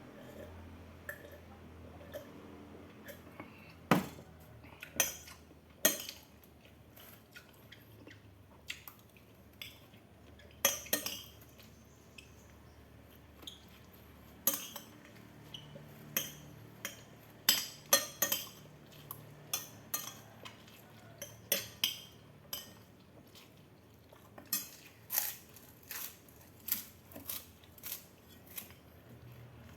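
Cutlery clinking and scraping against a plate in many quick, irregular strikes, thicker in the second half: a plate of food being eaten fast.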